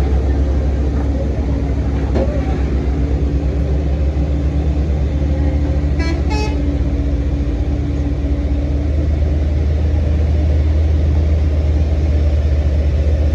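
Heavy truck's diesel engine running with a loud, steady low rumble. A vehicle horn toots twice in quick succession about six seconds in.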